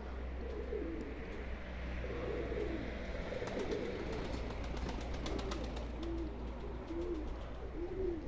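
Domestic pigeons cooing, several birds in a steady run of repeated low coos. A quick series of sharp clicks comes about three to five seconds in.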